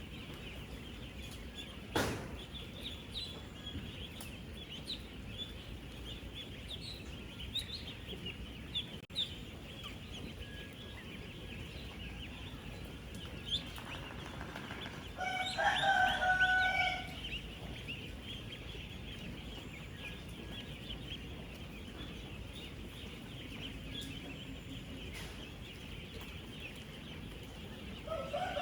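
A large flock of ten-day-old ducklings peeping together in a dense, continuous chorus of short high calls. A single louder, lower call stands out for about two seconds around the middle, and there is a sharp click a couple of seconds in.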